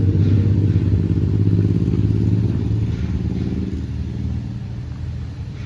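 Passenger train cars and a caboose rolling past on the track: a steady low rumble that fades after about four seconds.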